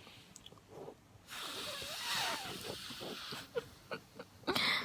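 A person blowing a long breathy hiss of air through the mouth, a mock hairdryer, lasting about two seconds. A shorter breathy puff comes near the end.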